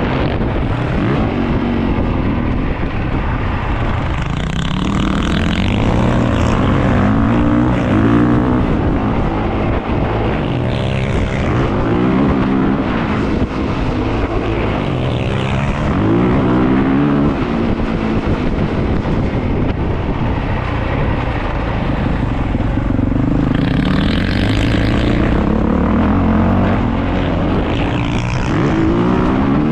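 450cc four-stroke dirt bike engines being ridden, their pitch rising and dropping again and again as they rev up and back off.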